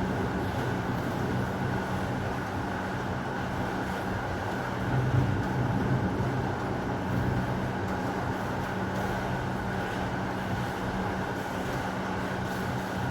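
Steady heavy rain noise with a constant low hum beneath it, and a low rumble swelling briefly about five seconds in.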